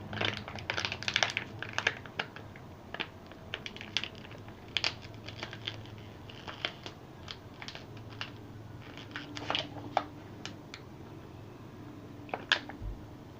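Thin plastic water bottle crinkling and crackling in irregular sharp clicks as it is squeezed and drunk from in a fast chug.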